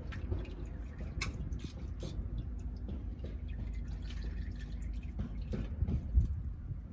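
Engine oil dripping from the drain hole into a drain pan: scattered irregular drips over a steady low rumble.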